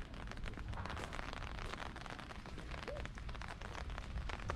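Steady patter of rain: many small irregular ticks over a low outdoor rumble.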